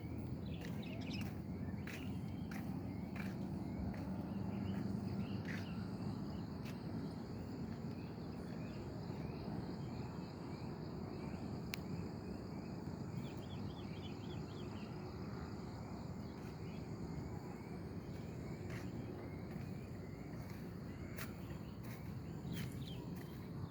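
Outdoor ambience of insects trilling with a steady high-pitched drone, scattered short bird chirps and a few sharp clicks over a low, even rumble.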